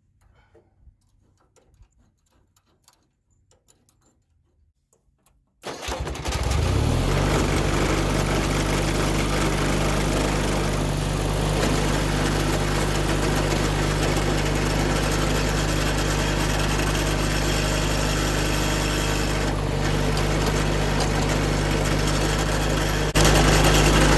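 John Deere 317 garden tractor's engine cranking and catching about six seconds in, then running steadily, louder near the end. Before it starts there are only a few faint clicks and taps.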